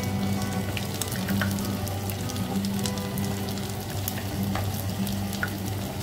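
Grated potato pancakes sizzling in hot oil in a frying pan, a dense hiss with many small crackles. There are light knocks and scrapes as a spatula and chopsticks turn them.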